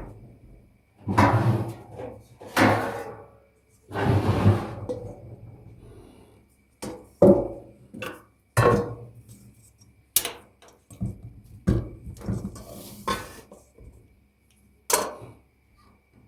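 Kitchen handling sounds: a series of about a dozen irregular knocks and clatters as utensils, dishware and cupboard or drawer fittings are moved and set down, some with a brief ringing tail.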